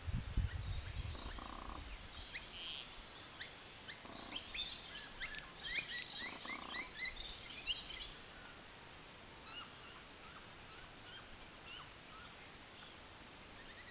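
Wild birds chirping and calling: a flurry of quick high chirps through the middle few seconds, thinning to scattered calls near the end. A short low rumble sounds at the start, and a brief buzzy pulse recurs every couple of seconds.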